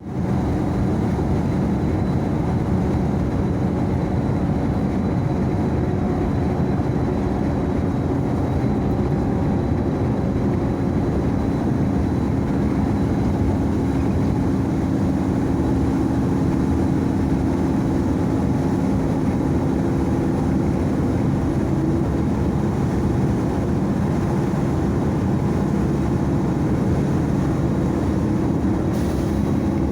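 A motor vehicle running steadily: a continuous low rumble with a steady engine hum.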